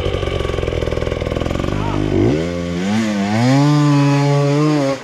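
Dirt bike engine running at low revs with a fast, rough firing pulse, then revving up about two seconds in and holding high revs before dropping off at the very end.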